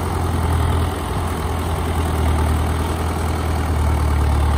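Engine of a tracked rice-hauling tractor running steadily with a strong low hum as it crosses a makeshift bridge.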